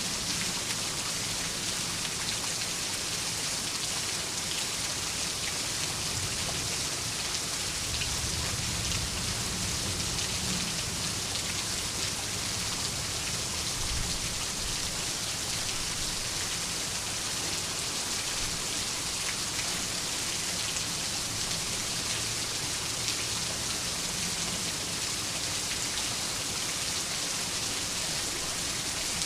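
Steady rain falling in a dense, even hiss, with a low rumble of distant thunder swelling and fading around ten seconds in.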